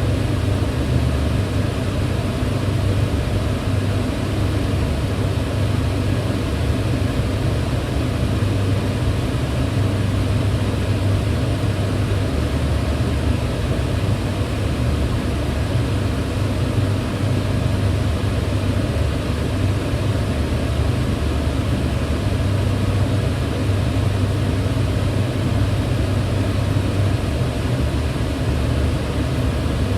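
Kitchen range hood fan running steadily: an even, unbroken whoosh of air with a deep hum at its base.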